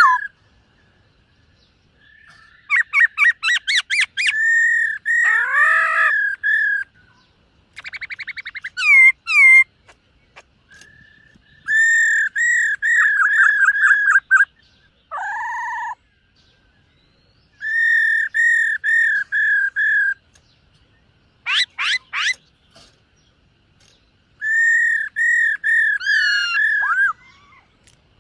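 Black-throated laughingthrush singing loud whistled phrases of rapid, repeated notes. There are about seven bursts, each one to three seconds long, with short pauses between them.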